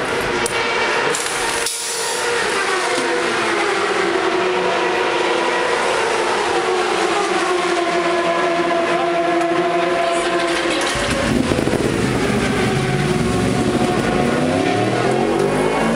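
Racing motorcycle engines running, their pitch sliding down over the first few seconds and then holding steady. A deeper engine note comes in about eleven seconds in and rises in pitch near the end.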